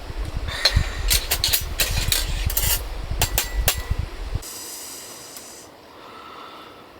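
A run of sharp clicks and knocks over low thumping, like objects being handled, stopping about four and a half seconds in. A short hiss follows for about a second.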